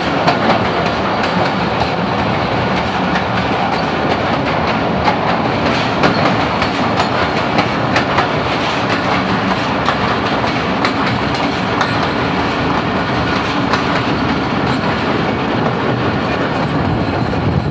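Thal Express passenger train running through a rail tunnel: a steady loud rumble of the coaches with a dense clickety-clack of the wheels on the track.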